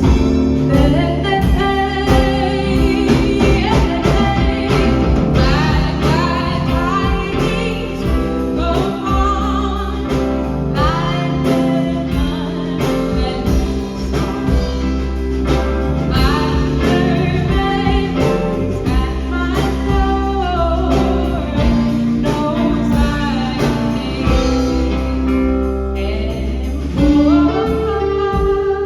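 Live band music: a song with steady bass and a regular beat under a lead melody that bends and glides in pitch.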